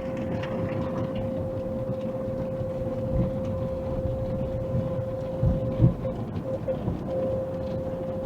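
Car wash machinery running: a steady whine over a low rumble, with a few scattered thumps.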